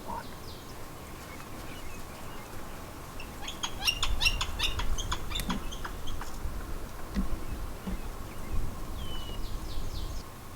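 Small wild birds chirping: a rapid run of sharp chips about four seconds in and a short falling call near the end, over a low rumble.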